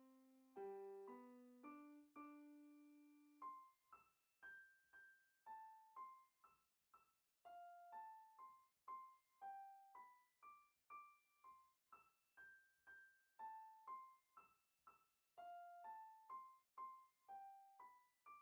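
Quiet background piano music: a few sustained low chords, then from about four seconds in a slow line of single high notes, roughly two a second, each dying away.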